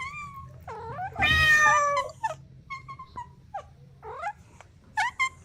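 Kittens meowing: a quick string of about ten short, high meows, with one louder, longer, harsher meow about a second in.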